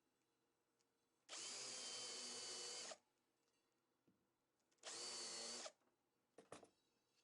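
Handheld power drill running in two short bursts, the first about a second and a half long and the second shorter, with a steady whine.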